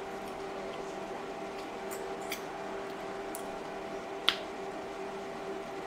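Close-miked eating: soft chewing and wet mouth clicks, with one sharp click about four seconds in, over a steady background hum.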